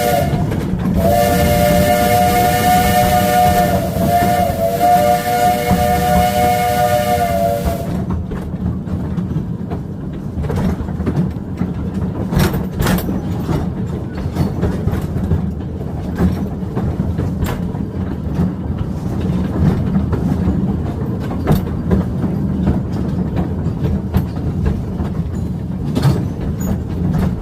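Steam locomotive's multi-note chime whistle blowing: a short toot, then a long blast lasting about seven seconds that cuts off about eight seconds in. After that comes the low rumble of the train rolling along the track, with irregular clacks and rattles from the wheels and cars.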